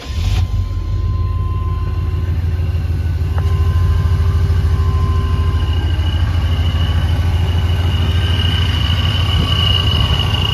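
1998 GMC Sierra 2500HD engine on a cold start: it fires right at the beginning and settles into a steady idle. Over the idle there is a thin, steady high whine that gets louder toward the end. The owner first suspected a pulley or bearing, but has had it checked and calls it the normal sound of the charger.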